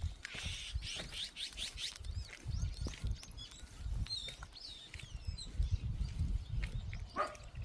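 Wild birds chirping and calling: a quick run of high chirps in the first second or so, then more scattered, curving calls around the middle. Light ticks and low rumbling bumps run underneath.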